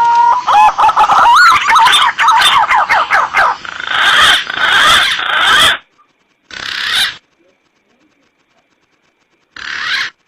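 Green pigeons (punai) calling on an edited lure recording: overlapping whistled calls glide up and down for about six seconds, then two short bursts follow with silent gaps between them.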